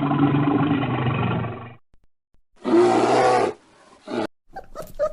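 A large animal's long, low roar lasting nearly two seconds. After a short gap comes a second, higher and shorter call, and near the end a new clip starts with sharp clicks and yelps.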